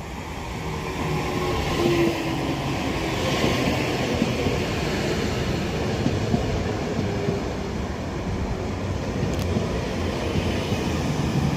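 Northern Class 331 electric multiple unit pulling into the platform. Its running and braking noise swells over the first couple of seconds, then holds steady, with faint wheel squeal.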